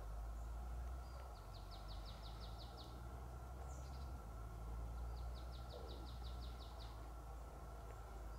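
A songbird in the forest sings two high trills of rapid, evenly repeated notes, each about a second and a half long, a few seconds apart, over a steady low rumble.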